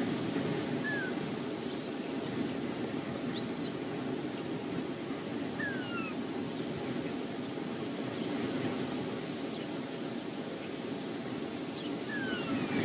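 Wind buffeting an outdoor nest-cam microphone, a steady low rushing, with a few short, high, falling chirps from birds scattered through it.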